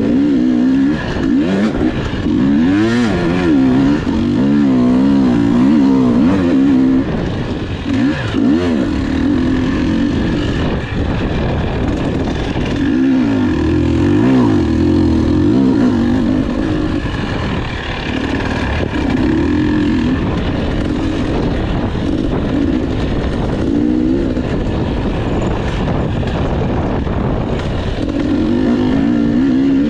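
Enduro motorcycle engine ridden hard, revving up and down continuously, its pitch swinging rapidly with the throttle and easing off briefly now and then.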